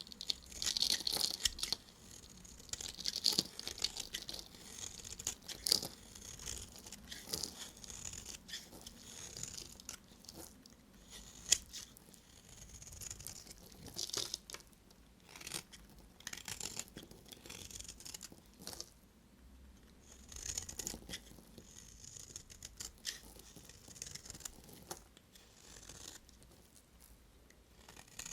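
Knife cutting through bars of soap: irregular crackly, scraping strokes with short pauses between them, and a sharp click about eleven and a half seconds in.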